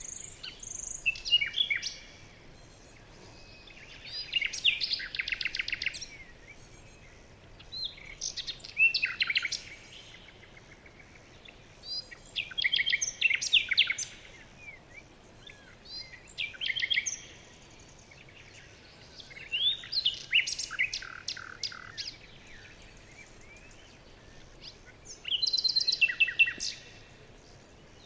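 A songbird singing the same short song over and over, about seven times, one every four seconds or so; each song is a quick run of high notes ending in a rapid trill. A faint steady outdoor hiss lies under it.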